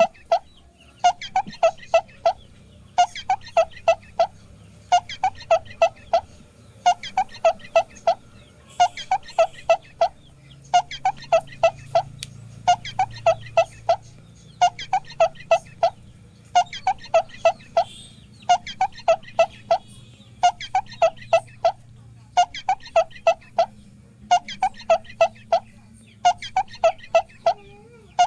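A looped track of quick, pitched clucking notes in bursts of about five, repeating roughly every two seconds with machine-like regularity.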